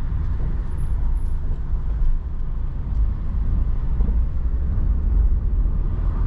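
Steady low rumble of road and engine noise inside the cabin of a car driving on wet roads in rain.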